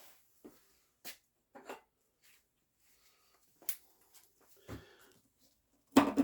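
Scattered light clicks and scrapes, a soft thud about three-quarters through, and a louder clatter at the very end, from handling a motorcycle fuel tank and the loose, failed tank-sealer material coming out of it.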